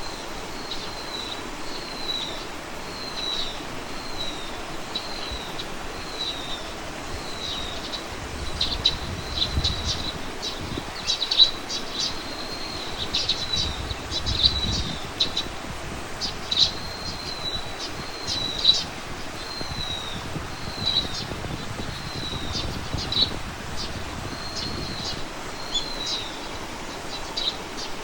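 Small birds calling. A short down-slurred note repeats about once a second, and from about eight seconds in sharper, clicking chirps join it, over a steady outdoor hiss.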